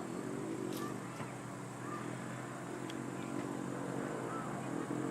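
Motorized hang glider's propeller engine droning steadily in flight, its pitch wavering slightly.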